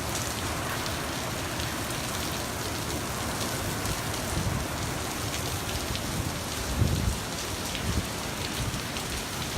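Steady hiss of heavy hurricane rain from Hurricane Florence, with a few dull low thumps about two-thirds of the way through.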